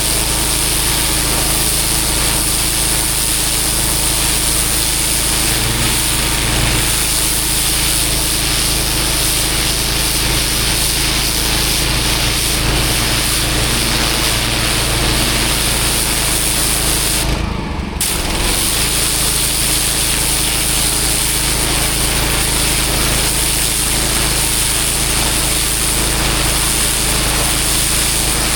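Engine-driven pressure washer running steadily with its water jet hissing against block paving. The spray cuts out for a moment about two-thirds of the way through, then resumes.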